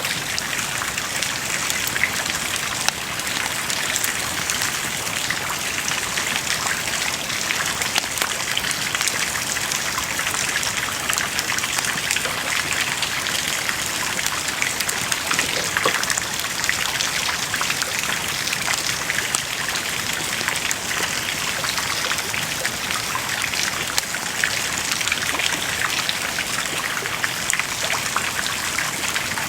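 Wood fire burning with a dense, steady crackle of many small sharp pops over a continuous hiss.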